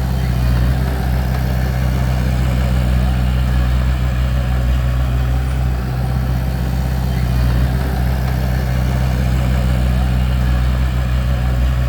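Bulldozer's diesel engine running steadily, a deep even drone with no change in pitch.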